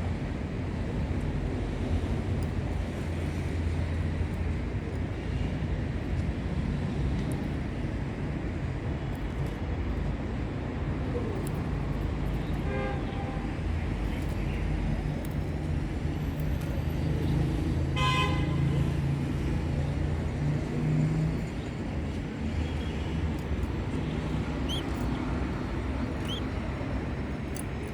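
Steady low road-traffic rumble, with a vehicle horn tooting briefly about 18 seconds in and more faintly around 13 seconds, and a few faint high chirps.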